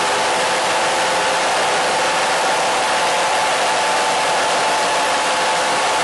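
Steady, unchanging radio-style static hiss, with a few faint steady tones running through it in the middle range.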